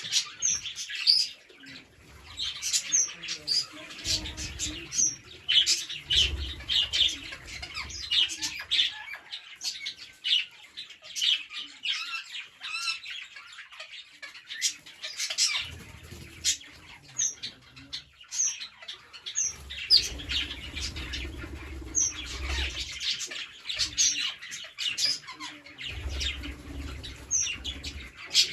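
A flock of green parrots chirping and squawking continuously in quick, overlapping calls, with bouts of low rumble now and then underneath.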